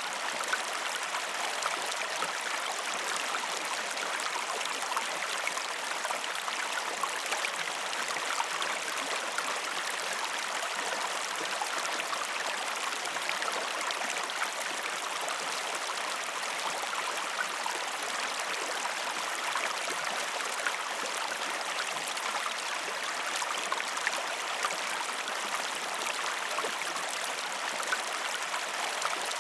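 Waterfall running, a steady rushing splash of falling water with small spattering droplets throughout.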